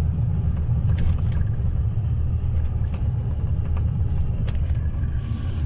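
Steady low drone of a truck's engine and road noise heard from inside the cab while driving, with a few light clicks about a second, three seconds and four and a half seconds in.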